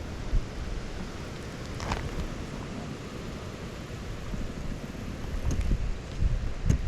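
Wind buffeting the microphone as a steady low rumble, with a few faint knocks.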